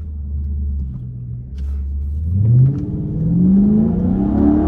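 Straight-piped 392 (6.4-litre) HEMI V8 of a Dodge Charger Scat Pack running low and steady, then revving hard under acceleration. Its pitch climbs steeply from about halfway through and keeps rising to the end.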